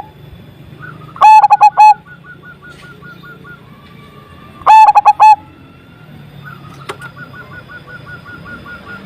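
A local zebra dove (perkutut) singing its big-voiced song: two loud phrases of four or five quick rolling coos, one about a second in and one about halfway. Between and after them come softer runs of short, evenly repeated higher notes.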